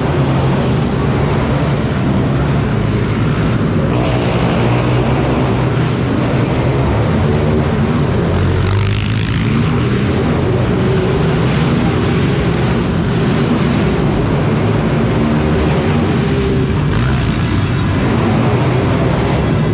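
Several small four-stroke minibike engines running and revving together during racing, their pitch shifting up and down.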